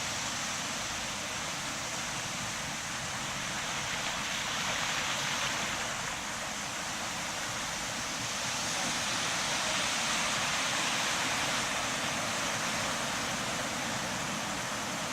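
Steady rushing noise of wind and water on a sailing yacht under way, swelling and easing slightly a couple of times.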